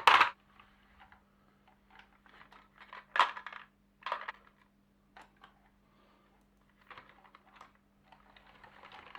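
Marbles clicking and rattling on a HABA wooden marble run: scattered light clicks and short rattles, the loudest a little after three seconds and about four seconds in. A louder clatter cuts off right at the start, and a faint steady hum sits underneath.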